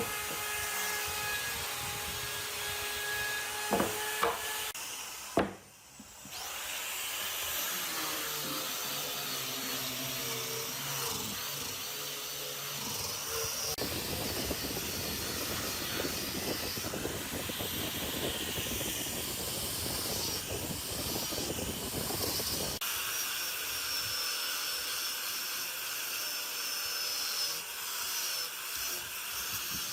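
Woodworking power tools running on wood in a string of short edited clips: a steady motor whine at first, then continuous rasping machine noise, changing abruptly twice.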